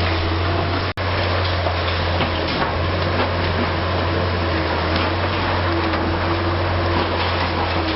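Heavy diesel engine of a Liebherr R 960 high-reach demolition excavator running steadily with a low drone, under a dense hiss with scattered faint clicks. The sound cuts out for an instant about a second in.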